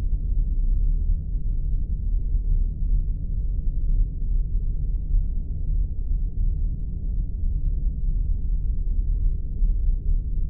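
Spaceship sound effect: a steady, deep rumbling drone with nothing in the high range.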